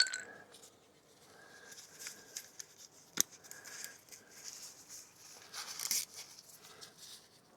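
Faint scattered clicks and scrapes of hand tools as bolts are tightened up, with one sharper click about three seconds in.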